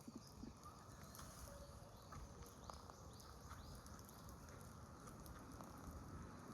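Near silence: faint outdoor ambience with a few soft, high, short bird chirps between about two and a half and three and a half seconds in, and scattered faint clicks.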